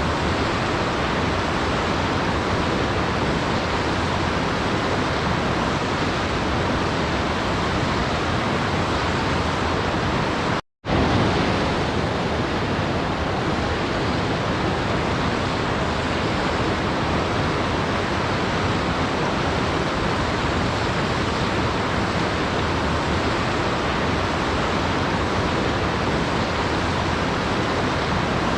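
Waterfall, the steady even rush of falling water, broken by a split-second gap of silence about eleven seconds in.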